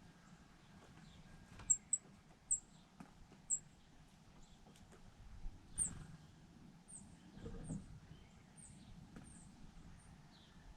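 Small birds at a seed feeder giving short, high chirps, about a dozen scattered through, the loudest ones in the first few seconds.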